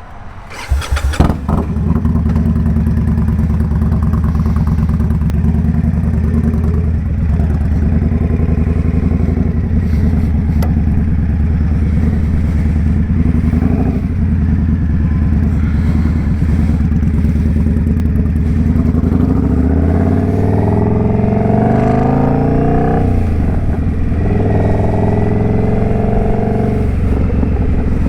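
Indian Scout Bobber's V-twin engine starting with a few sharp clatters about a second in, then idling steadily. Near the end it accelerates away, the pitch rising, dropping briefly at a gear change, and rising again.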